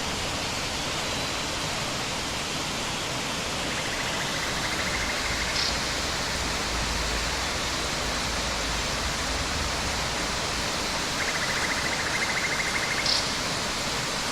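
Steady rush of a waterfall, an even unbroken roar of falling water, with two short buzzing trills over it, about four seconds in and again near the end.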